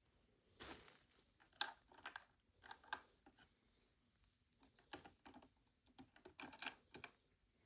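Faint, scattered clicks and taps of small plastic miniature items being handled and set into a toy refrigerator, with several quick clusters of clicks around the middle and near the end.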